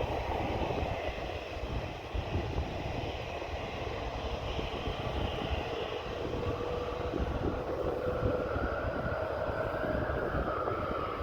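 Boeing 767-300 twin-jet airliner taking off, its engines at takeoff thrust: a continuous jet roar with a whine whose pitch shifts slowly as the aircraft speeds away.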